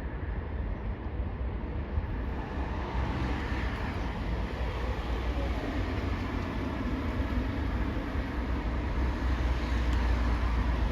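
Low, steady rumble of a heavy engine, growing slowly louder.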